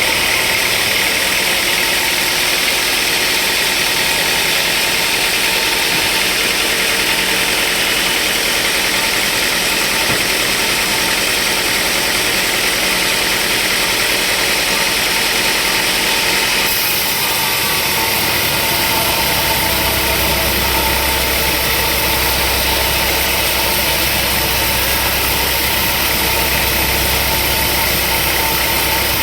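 Sawmill machinery running steadily with a dense mechanical noise. About two-thirds of the way in the sound changes and a deep hum comes in.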